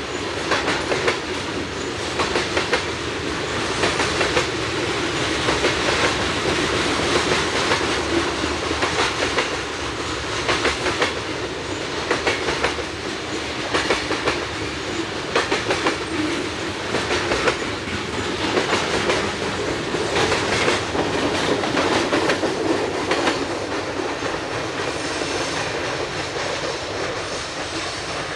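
Freight train cars rolling past with a steady rumble, the wheels clicking in repeated clusters as they cross rail joints.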